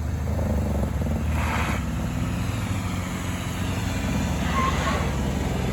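Car engine running steadily at low revs, with a couple of brief hissing surges.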